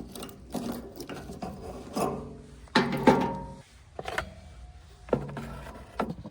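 Backhoe loader at work: irregular metallic scraping and clanking strokes with ringing squeals over a low engine drone, the loudest about three seconds in. Everything cuts off abruptly at the end.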